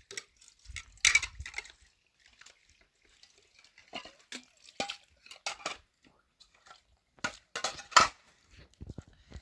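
Scattered clinks and clatters of small hard objects being handled, the loudest about a second in and again around eight seconds in.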